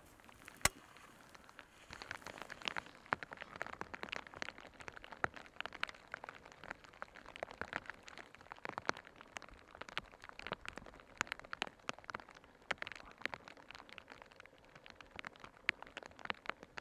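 Rain falling, heard as many irregular drops tapping close by over a faint hiss, with one sharper click a little under a second in.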